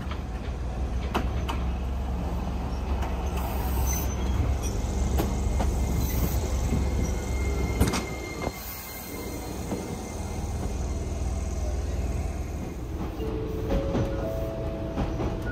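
Alpico Kōtsū Kamikōchi Line electric train rumbling, with scattered clicks and one sharp click about halfway through. Near the end a few steady tones step up in pitch as the train pulls away from the station.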